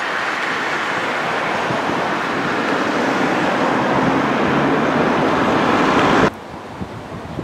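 VR Sm3 Pendolino electric train running past, a steady rushing rumble of wheels on rail that slowly grows louder. It cuts off abruptly about six seconds in, leaving quieter wind noise.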